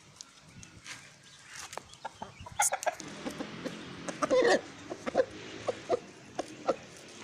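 Domestic chickens clucking in short, scattered calls. A louder cluck comes about four and a half seconds in.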